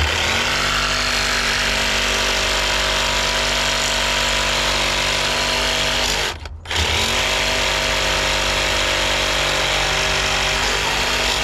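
Pneumatic air hammer running in two long bursts, each with a steady rapid buzz that settles just after the tool starts, with a brief pause of about half a second near the middle. It is being used to drive out a worn track bushing.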